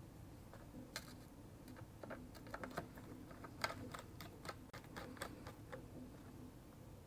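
Faint, irregular light clicks and taps of small hard parts being handled as a MacBook Air is put back together, with a cluster of quick clicks in the middle.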